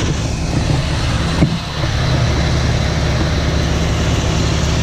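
John Deere 3300 combine running steadily while harvesting wheat: a dense, even drone of engine and machinery.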